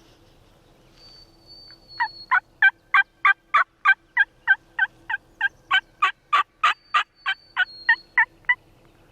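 Wild turkey calling: a long, even run of about twenty loud yelps at roughly three a second, beginning about two seconds in.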